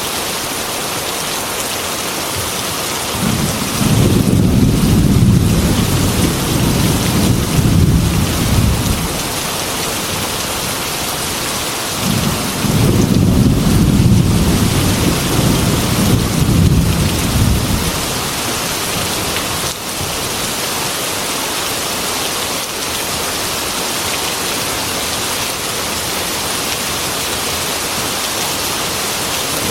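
Heavy rain hissing steadily on window glass, with two long rolls of thunder, each lasting about five seconds, and another starting near the end.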